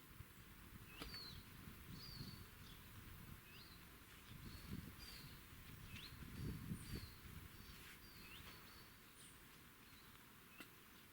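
A small songbird chirping over and over, short high chirps that slide up or down, every half second or so. Faint low rustling comes and goes in the middle, loudest about two thirds of the way through.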